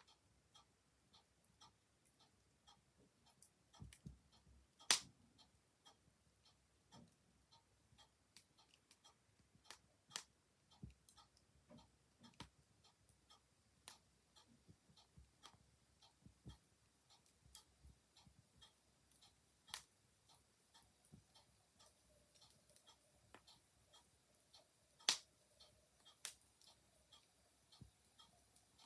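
Mechanical clock ticking steadily and softly, over a wood fire crackling with scattered sharp pops, the loudest about five seconds in and again about twenty-five seconds in.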